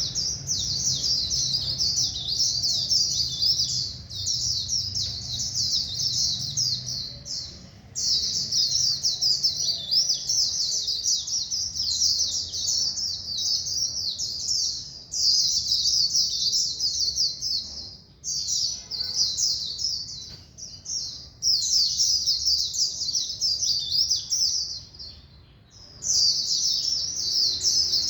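White-eye singing a rapid, high-pitched twittering song, delivered in long runs of several seconds with short pauses between them.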